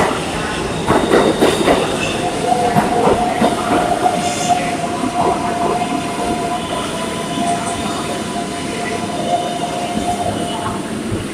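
Kawasaki R142A subway train running on the rails, with knocks in the first two seconds and a steady high-pitched tone held from about two seconds in until near the end.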